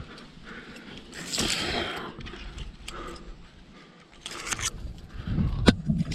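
Scraping and rustling from a climber moving up a rock chimney, with a sharp click near the end.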